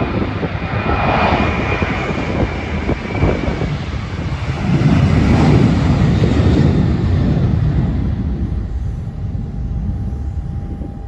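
Airliner's engines passing by: a loud rumble that swells to its loudest about halfway through, then fades away.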